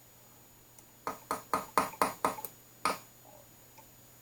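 Amp chassis being tapped sideways across the cabinet top to centre it: a quick run of about seven sharp, slightly ringing taps, then one more a moment later.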